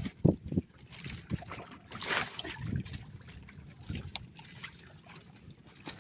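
Sea water splashing and sloshing around a small fishing boat, with a few low thumps in the first second and a louder rush of water about two seconds in.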